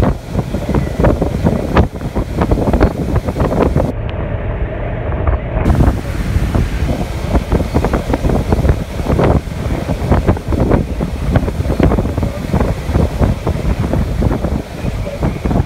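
Strong gusty wind buffeting the microphone, a continuous low rumble broken by irregular thumps. For about a second and a half, about four seconds in, the hiss above it drops out.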